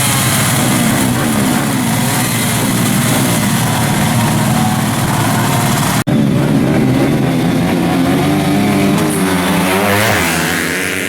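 Several stock underbone motorcycles racing on a dirt track, their engines revving up and down at overlapping pitches. The sound cuts out for an instant about six seconds in, then carries on and eases slightly near the end.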